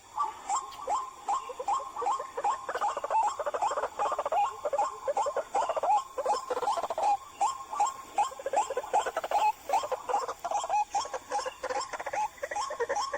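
White-breasted waterhen (ruak-ruak) calling: a rapid, unbroken run of repeated croaking notes, a few a second, starting abruptly.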